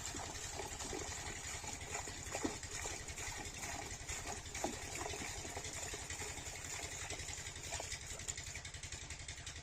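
7HP diesel engine of a water-pumping set running steadily, a rapid even chugging of roughly ten beats a second.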